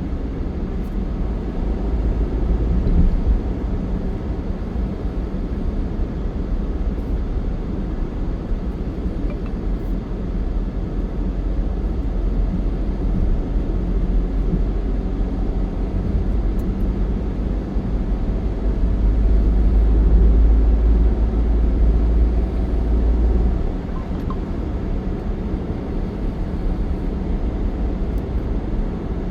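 Steady low rumble of vehicle and road noise. It swells louder for a few seconds past the middle, then drops back suddenly.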